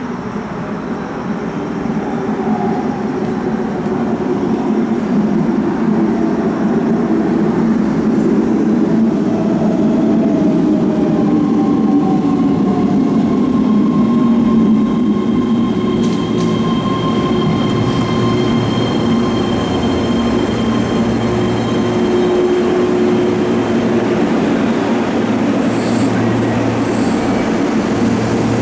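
Keihan electric train moving through the station: steady rumble of wheels on rail with a motor whine that glides in pitch, growing louder over the first few seconds. A thin high squeal joins in about halfway.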